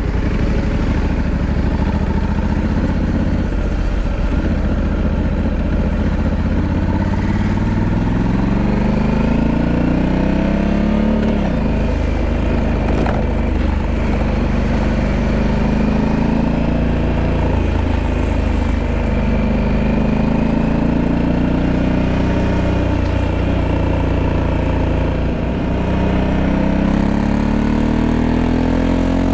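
Honda Africa Twin 1100's parallel-twin engine under way: the note is steady for the first several seconds, then rises and drops back again and again as it accelerates and shifts up through the gears.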